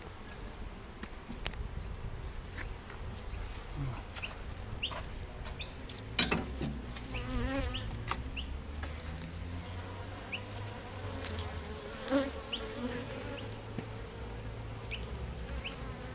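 Honey bees buzzing around an open hive: a steady hum, with single bees passing close in wavering tones. Scattered light clicks run through it, and there is a louder knock about six seconds in.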